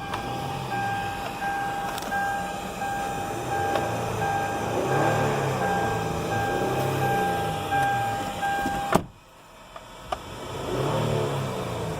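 A vehicle's warning chime beeping steadily at about two beeps a second over a steady tone, cutting off abruptly about nine seconds in.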